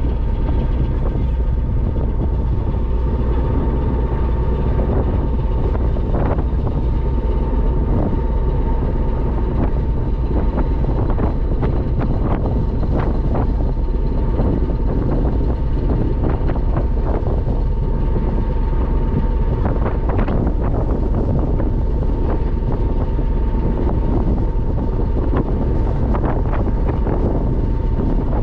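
Ferry's engine running steadily underway, a loud low drone with a steady whine over it and occasional small rattles.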